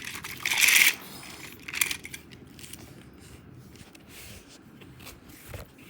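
Toy trains clattering in a crash: a loud clatter about half a second in, another just before two seconds, then a few lighter knocks and clicks as the pieces settle.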